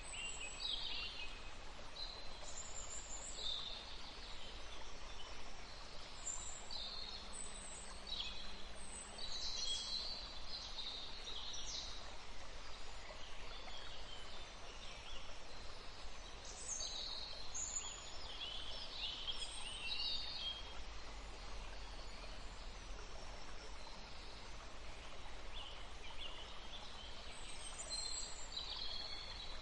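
Several songbirds chirping and singing in short, high phrases and trills, coming in clusters with short lulls between, over a steady faint background hiss.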